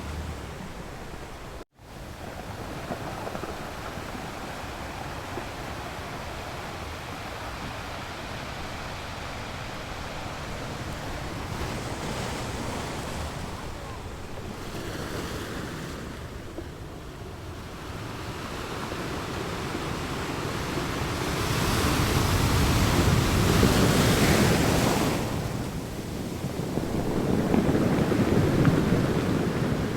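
Wind rushing over the microphone above a steady surf-like rush of water, with a brief dropout near the start and two louder swells in the second half.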